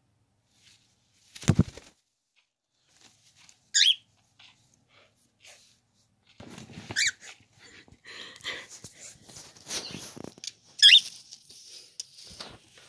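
Cockatiel giving three short high calls, spaced a few seconds apart, with scuffling and rustling in between. A loud squeak comes about a second and a half in.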